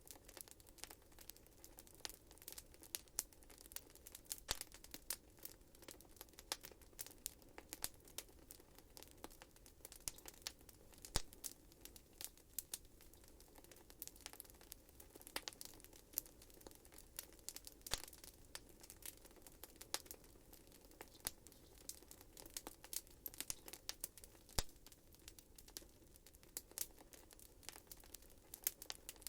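Wood fire burning in a fireplace, crackling with many small irregular pops and snaps over a faint low hiss; a couple of louder pops stand out, about 11 seconds in and near 25 seconds.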